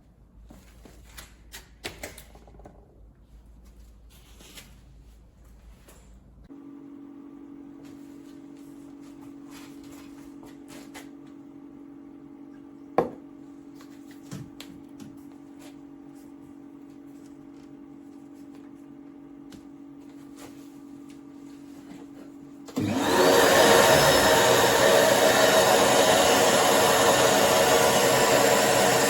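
Electric random orbital sander (Vistreck 450 W, 150 mm) switched on about 23 seconds in: a rising whine as the motor spins up, then loud steady running. Before that, a few handling clicks and a steady low hum.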